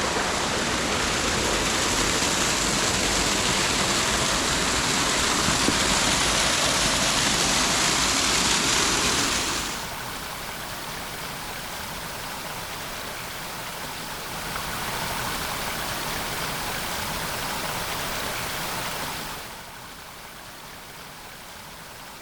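Broadwater Falls' water rushing in a steady roar of noise. It drops to a quieter level about ten seconds in, swells slightly a few seconds later and drops again near the end, as if heard from different spots.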